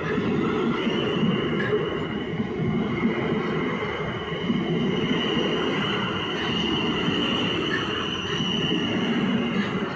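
A train running along the platform, a steady low rumble with a steady high-pitched squeal over it that comes in about a second in.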